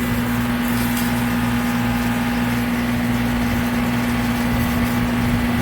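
An aging R22 air-conditioning condensing unit running, with a steady compressor hum and fan noise, and the hiss of a hose spraying water through its condenser coil to clean it.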